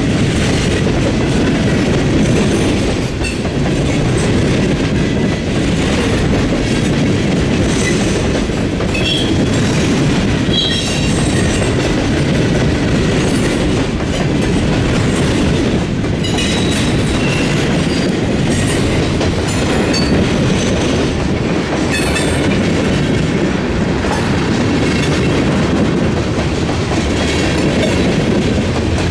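Freight train rolling past over a railroad diamond crossing: a steady heavy rumble with repeated clickety-clack of the wheels over the rail joints, and a few brief high wheel squeals.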